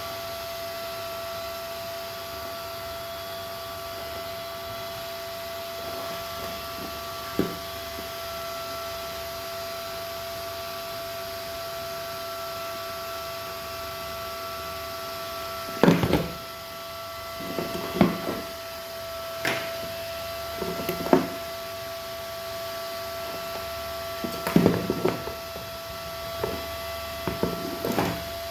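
Tools and parts being handled on a workbench: scattered knocks and short scrapes, few in the first half and frequent in the second, over a steady high-pitched electronic whine.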